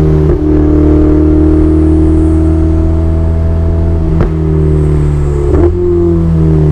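Ferrari 488 Spider's twin-turbocharged 3.9-litre V8 running at steady revs under way, with three short sharp cracks in the exhaust note and the pitch falling near the end.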